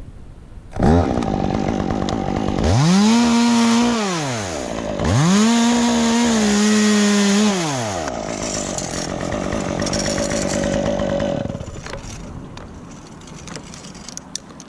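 Stihl chainsaw started up and revved twice to full throttle, each time a rising whine that holds high for a second or two and then falls back. Between and after the revs it keeps running at lower speed until it drops away near the end.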